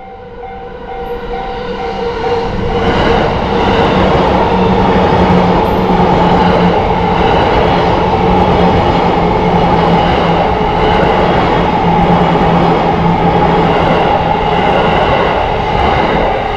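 Level-crossing warning bell dinging in a quick repeating pattern. From about three seconds in, a Yamanote Line electric train runs over the crossing: loud wheel and rail noise with a low steady motor hum that covers the bell, easing off near the end.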